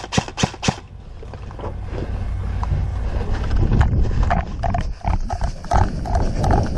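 A quick burst of about four airsoft shots in the first second, then rumbling movement noise with a regular beat of about three knocks a second from about four seconds in.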